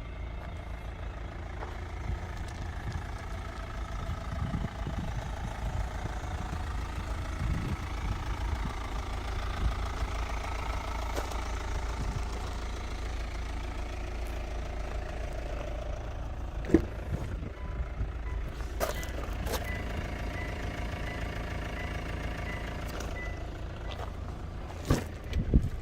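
A motor vehicle running with a steady low rumble. From about two-thirds of the way in, an electronic beep repeats at an even pace, and a few sharp clicks sound.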